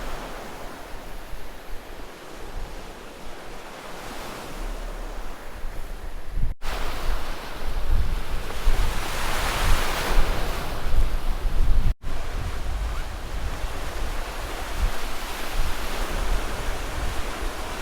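Sea waves washing onto the shore, with a louder surge of wash about halfway through, and wind buffeting the microphone as a low rumble.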